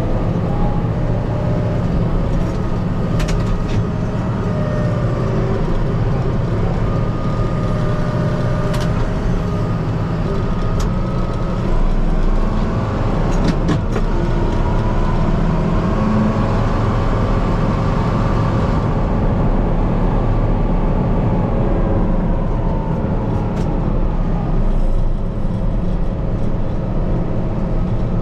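Kubota M5-091 tractor's four-cylinder turbo diesel engine running steadily, heard from inside the cab. Its note rises and falls once about halfway through, and a few short clicks sound over it.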